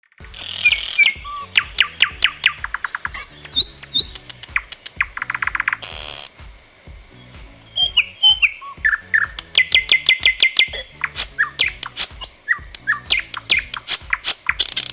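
Nightingale singing: fast runs of repeated notes, whistled slides and a buzzy rattle, with a quieter pause in the middle. Music with a stepping bass line plays underneath.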